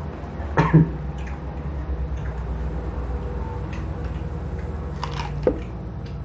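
Close-up crunching and chewing of raw rujak fruit dipped in sambal, with a loud crunchy bite about half a second in and another bite near the end, over a steady low hum.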